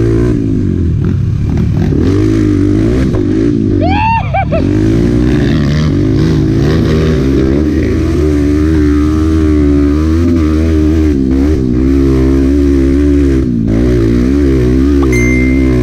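Honda Bros 125's single-cylinder four-stroke engine under way, its revs rising and falling constantly with the throttle, with one sharp rev up and back down about four seconds in.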